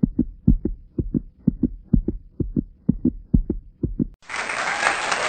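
Fast heartbeat sound effect: pairs of low thumps, lub-dub, about twice a second. About four seconds in, it stops and applause takes over.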